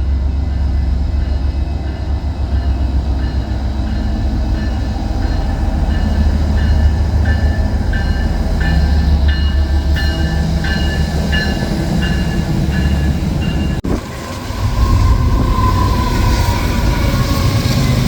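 Train passing close by: a loud, steady rumble of cars on the rails. In the middle there is a rhythmic run of short ringing tones about twice a second, and near the end the sound drops out for a moment.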